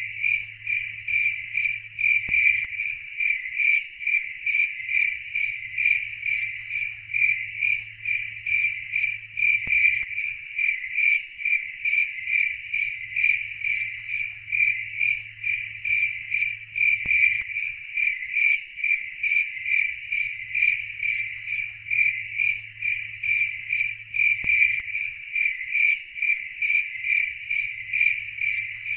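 Cricket chirping in a steady, even rhythm, a few high chirps a second. Under it is a faint low hum that breaks off briefly with a soft click about every seven seconds.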